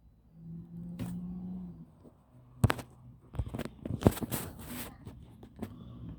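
A string of sharp clicks and knocks with short scraping noises, preceded by a brief low hum.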